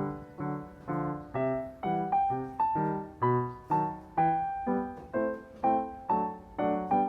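Background piano music: notes struck in an even rhythm of about two per second, each fading before the next.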